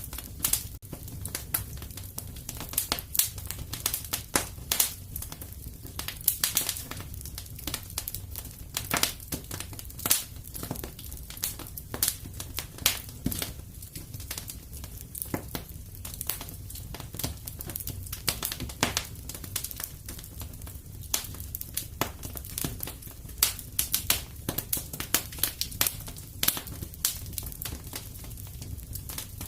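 Fire in a fireplace crackling, with many sharp, irregular pops over a steady low rumble.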